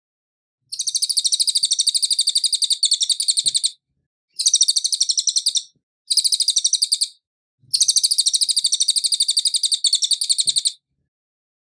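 Cililin songbird singing four fast, high-pitched trills of rapidly repeated notes. They are separated by short pauses, and the first and last trills each last about three seconds.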